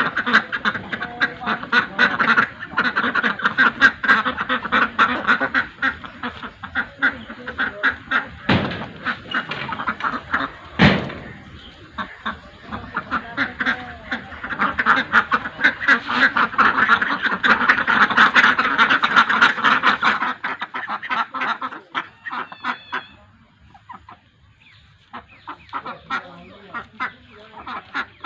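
A flock of desi (Indian domestic) ducks quacking, many rapid calls overlapping. The calling thins out and quietens after about twenty seconds, then picks up again near the end.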